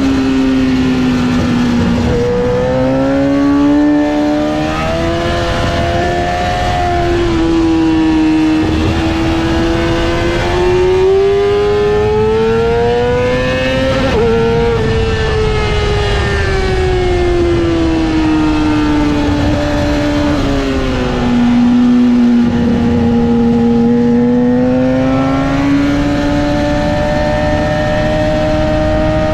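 Yamaha R6's inline-four engine running hard under a rider at speed on a race track. Its pitch climbs slowly and falls away again several times, with sudden steps where the gears are changed.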